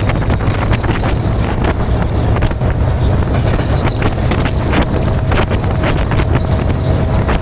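Meter-gauge passenger train running past at speed: a steady loud rumble broken by many irregular clacks of the wheels over the rails, with wind buffeting the microphone.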